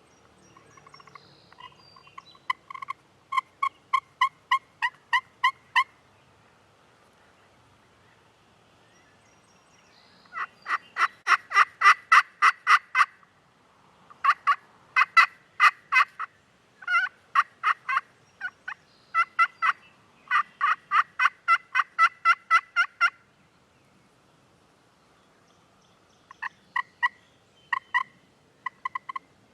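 Turkey yelping: runs of evenly spaced yelps, a few a second. The first run starts about two seconds in, a louder and faster run comes from about ten to thirteen seconds, more runs follow up to about twenty-three seconds, and another starts near the end.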